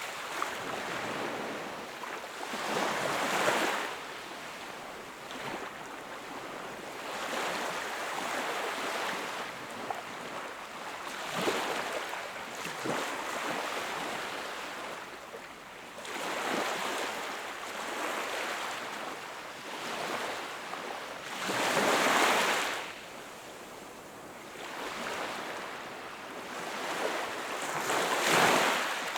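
Sea waves breaking and washing up the shore, each one swelling and falling away every few seconds. The loudest breaks come about three seconds in, around twenty-two seconds, and near the end.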